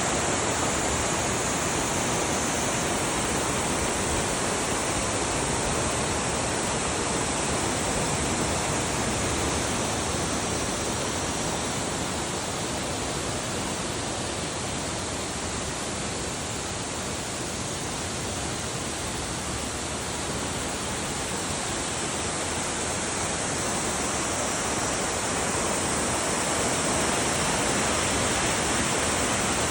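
Waterfall: a steady rush of falling water, slightly softer in the middle and fuller again near the end.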